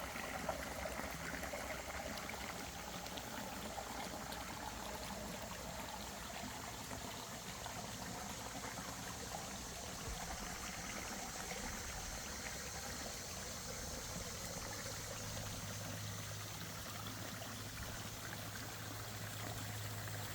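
Backyard pondless waterfall: water trickling and splashing steadily over the stones. A low steady hum joins about two-thirds of the way in.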